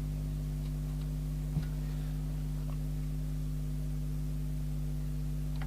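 Steady low electrical mains hum, with a single faint click about one and a half seconds in.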